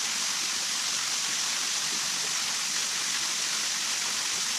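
Steady hiss of water, as of rain or running water, even and unbroken.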